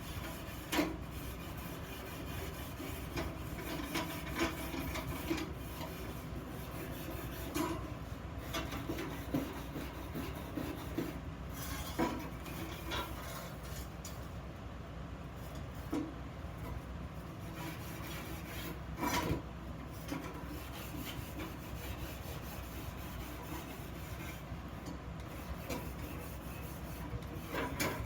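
Steady hand rasping and rubbing on a workpiece, with a few sharp knocks scattered through.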